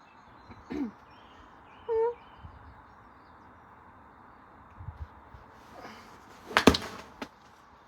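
Mostly quiet background with a brief pitched animal call about two seconds in and a single sharp knock near the end.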